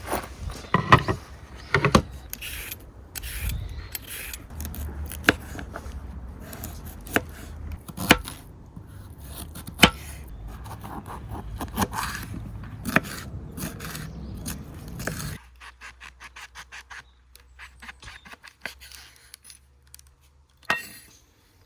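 Close scraping and rubbing with irregular sharp clicks and knocks, like objects being handled. About two-thirds through it drops suddenly to much quieter, faint ticking.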